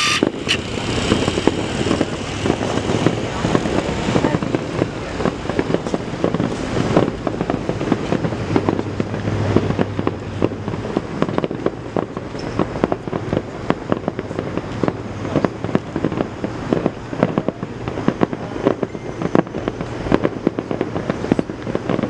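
Fireworks going off: a dense, continuous barrage of bangs and crackles overlapping one another.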